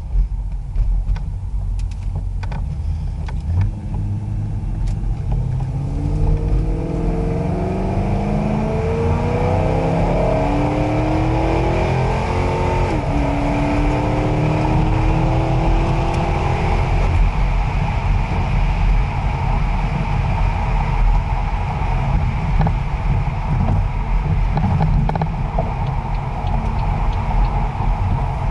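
Pontiac G8's engine heard from inside the cabin, accelerating with its pitch rising steadily for about ten seconds. The pitch dips at a gear change, holds briefly, then gives way to steady cruising with road and tyre noise. A few clicks sound in the first seconds.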